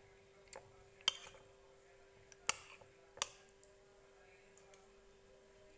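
A spoon clinking against a glass or dish four times while agar-agar is eaten, each click short and sharp, over a faint steady hum.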